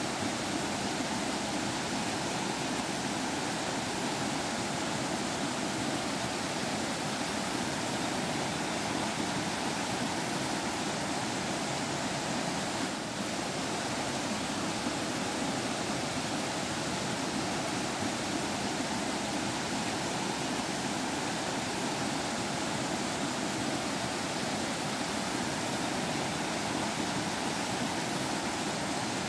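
Forest stream water flowing and splashing over rocks: a steady, unbroken rush.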